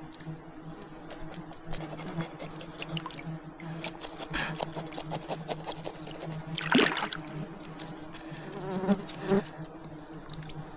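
A flying insect buzzing steadily close by, with scattered small clicks and water sounds and a louder swish about seven seconds in.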